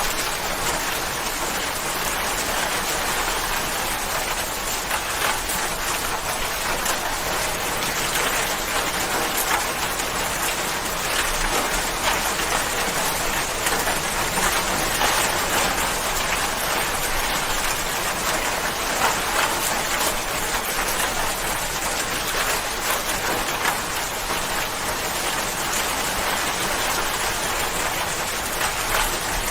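Steady rain falling, a dense even hiss of drops with many small ticks of drops striking a surface.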